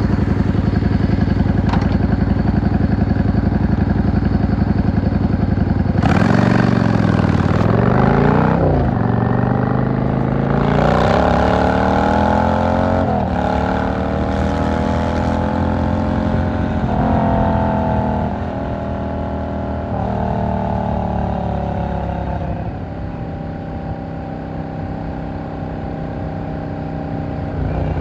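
V-twin cruiser motorcycle engine ticking over evenly, then about six seconds in pulling away and accelerating up through several gears. Its pitch rises in each gear and drops at each shift, before it eases off to run more steadily at lower revs near the end.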